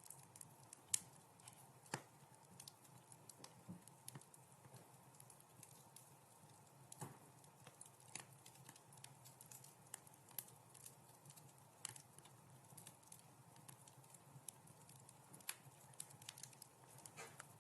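Wood fire crackling: irregular small pops and snaps over a faint steady background, the sharpest pops about one and two seconds in.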